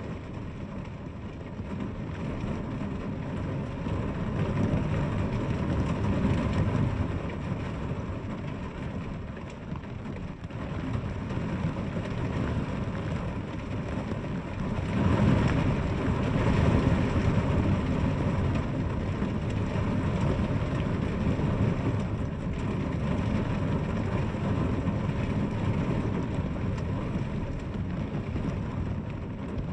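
Steady heavy rain with a deep rumble underneath that swells about five seconds in and again about fifteen seconds in.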